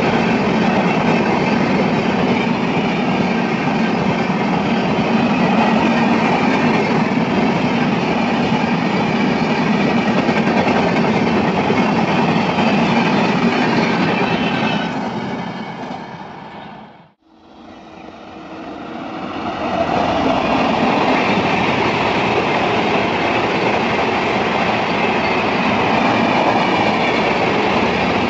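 A train running on the rails, a steady loud rolling noise. About seventeen seconds in it fades down to silence and then fades back up.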